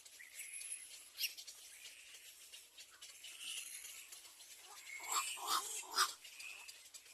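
Young birds calling in high, scattered peeps, with a louder cluster of calls about five to six seconds in.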